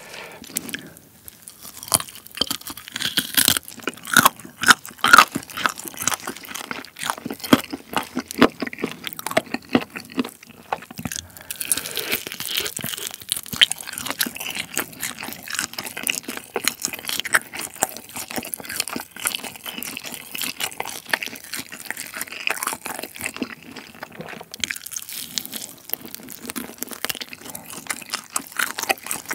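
Close-miked biting and chewing of a sauced chicken drumstick, the loudest bites coming in a run about three to six seconds in.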